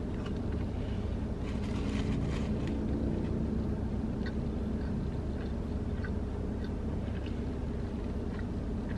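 Close chewing of a bread sandwich, with faint scattered mouth clicks, over a steady low hum in a car's cabin.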